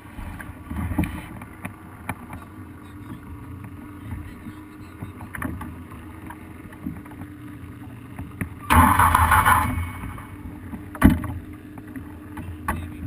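Vintage small engine being cranked without starting: quiet handling clicks and knocks, then about nine seconds in it fires for about a second and dies, followed by a single sharp knock.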